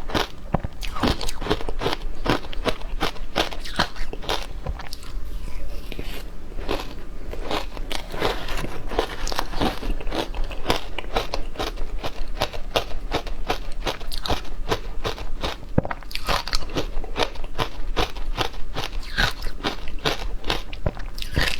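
Close-up crunching of frozen matcha ice being bitten and chewed: a rapid, continuous crackle of cracking ice with no pauses.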